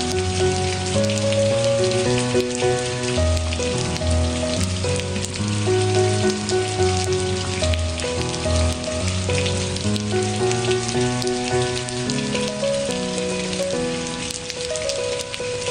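Steady rain falling, with many small drop ticks, mixed with slow background music of held notes that change about once a second.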